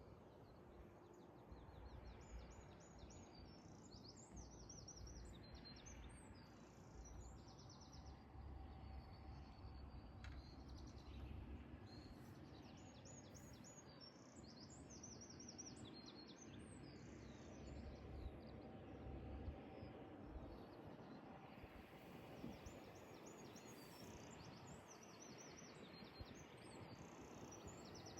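Faint outdoor birdsong: clusters of short, high, repeated chirps coming and going several times, over a low, steady background rumble.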